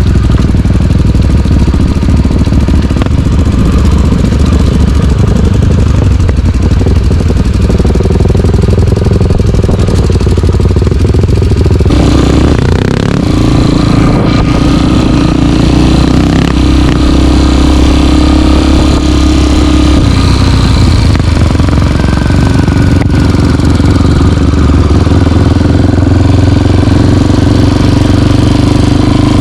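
Single-cylinder four-stroke trail motorcycle engine running loud and steady while riding, with the engine note stepping up about a quarter and again about halfway through as the throttle and gears change.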